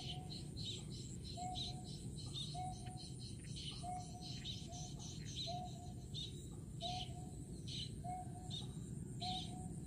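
Birds calling: a short low whistled note repeated about once a second, with higher, quicker chirps between them, over steady background noise.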